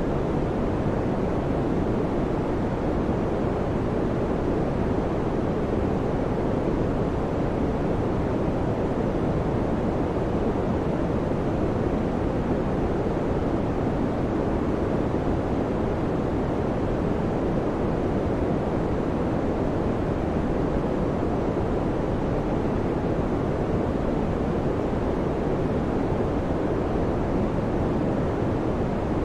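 Electric fan running at a steady speed, giving a constant low, even whooshing noise with no change or rhythm.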